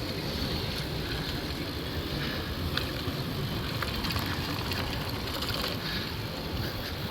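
Rolling on a bicycle with wind rumbling over the microphone: a steady, fluctuating low rumble with a few light clicks and rattles from the bike.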